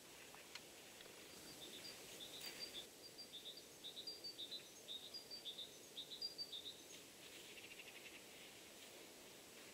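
A small bird calling over near silence: a quick run of short, high chirps, two or three a second, lasting about five seconds.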